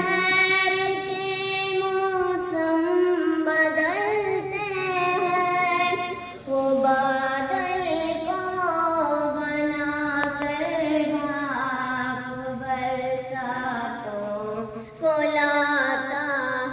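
A solo high voice singing a hamd, an Urdu devotional song praising God, in long, ornamented held notes, with short breaks about six seconds in and near the end.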